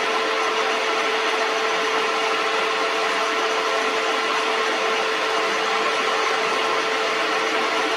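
Metal lathe running steadily, a constant machine hum with one strong steady tone over a hissing noise.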